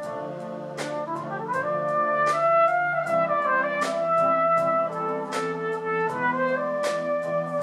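Wind band music: brass instruments such as trumpets and trombones holding and changing chords, with a percussion strike about every second and a half.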